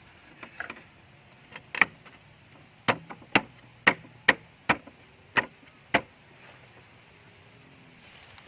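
A run of sharp chopping or knocking strikes on wood, about eight blows at roughly two a second, stopping about six seconds in.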